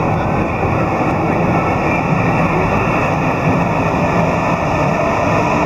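Steady rumble of rail traffic as a Shinkansen bullet train runs in on the tracks.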